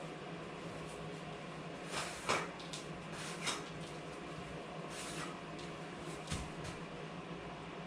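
Steady low hum with a handful of short scraping and knocking sounds, the loudest about two seconds in, another near the middle and one more near the end.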